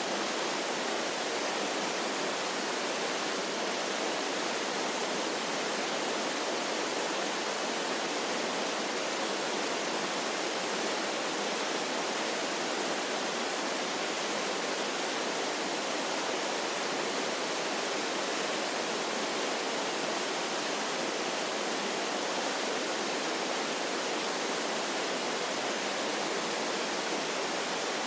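Waterfall: a steady, unbroken rush of falling water with little low rumble.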